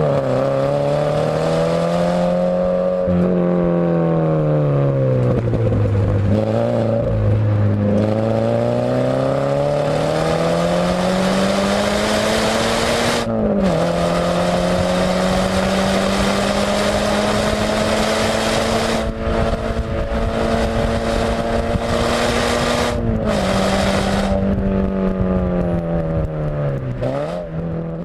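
Scion FR-S's 2.0-litre flat-four running through a Tanabe Concept G Medallion cat-back exhaust while being driven. The engine note climbs and falls with the revs, and it breaks and drops in pitch several times with gear changes. A long stretch at a nearly steady pitch sits in the middle.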